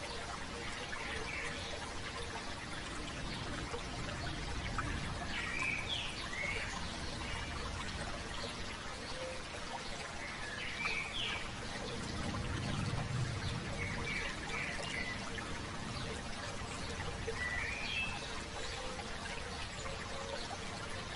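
A stream babbling steadily, with small birds chirping short calls every few seconds over it.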